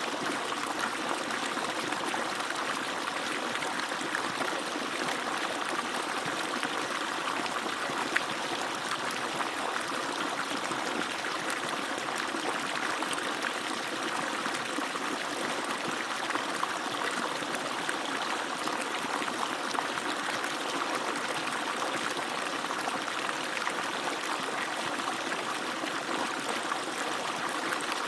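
Water from an agricultural water pump falling and splashing in a steady, unbroken stream.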